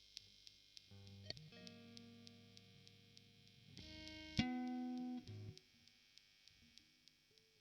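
ESP LTD ST-213 electric guitar played through an amp, a few single notes ringing out. The loudest note is picked about four and a half seconds in and is damped about a second later, and another note starts near the end.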